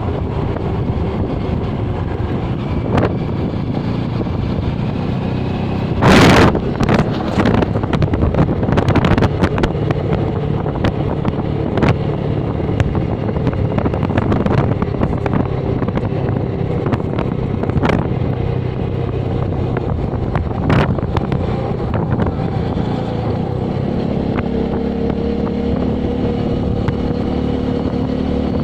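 Motorcycle engine running steadily while riding, with wind buffeting the microphone and scattered knocks from bumps. A loud, sharp rustle or thump comes about six seconds in.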